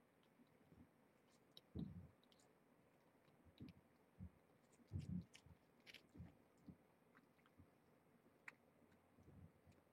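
Faint, irregular chewing from a cat eating, soft low thumps with a few small clicks.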